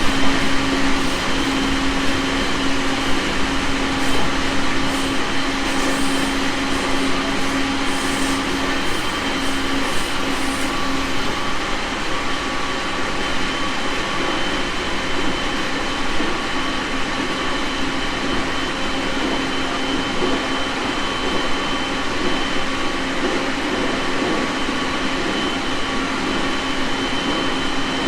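Onboard running noise of a JR East 701 series 1000-subseries electric multiple unit at speed: a steady rumble of wheels on rail with a thin high whine. A low steady hum fades out about ten seconds in.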